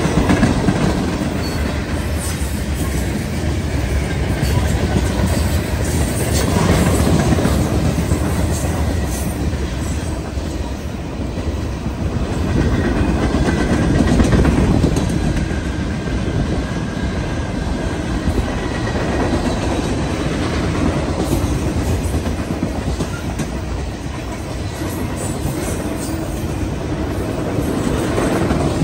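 Freight cars of a passing train rolling by close at hand: a steady rumble of steel wheels on the rails, with clickety-clack as the wheels cross rail joints, swelling and easing slightly as the cars go by.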